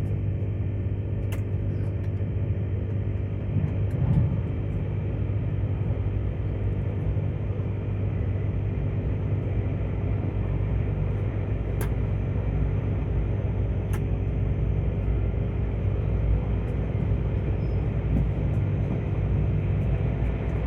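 Steady cabin rumble and hum of a Queensland Rail electric Tilt Train running along the line, heard from inside the passenger car, with a few faint clicks.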